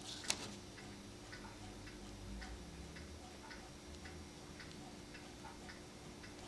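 Faint, steady ticking of a mechanical clock, about two ticks a second, with one sharp click about a third of a second in.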